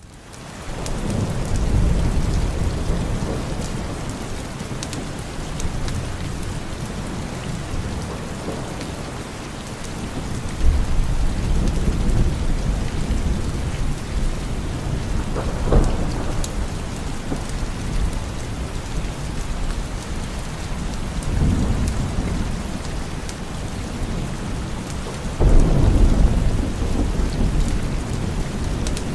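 Steady heavy rain with thunder rolling through it. The rain fades in at the start, and several deep rumbles swell and die away, with one sharper clap about halfway through.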